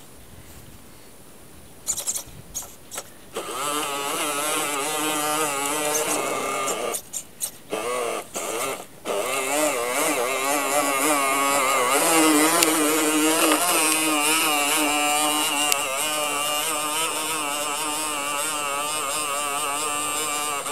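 Radio-controlled Bruder Scania toy truck running, its motor and drivetrain giving a pitched whine that wavers up and down with speed. A few clicks come just before it starts, and it cuts out briefly a few times near the middle.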